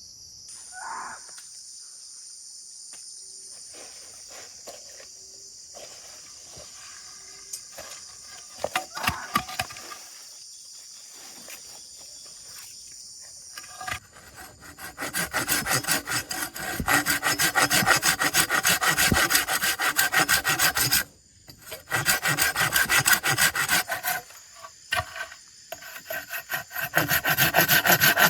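Steady high insect drone with a few scattered knocks. About halfway in, a blade starts working wood in rapid rasping strokes, like sawing or scraping. It stops briefly for about a second, then goes on.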